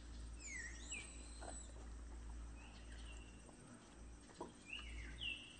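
Birds calling in the surrounding forest: a scattered series of short whistled notes that slide down in pitch, the clearest near the end, over a low steady rumble.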